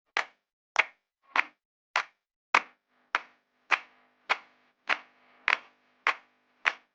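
A steady beat of sharp percussive hits, about one every 0.6 seconds, with a faint held tone joining about three seconds in.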